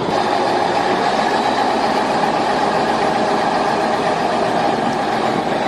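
Heavy truck engine running steadily, a continuous loud mechanical noise.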